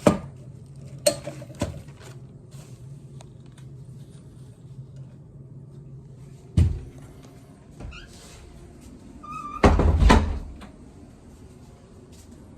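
A few sharp knocks and thumps, like a door or cupboard being handled, spread over several seconds. The loudest is a double thump near the end.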